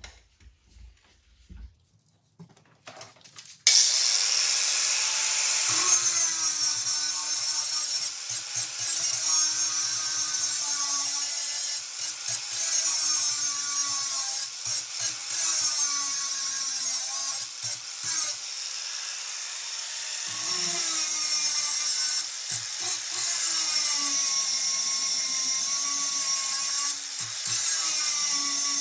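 Electric grinder switched on about three and a half seconds in and running continuously on metal, its motor pitch dipping and recovering again and again as it is pressed into the work and eased off.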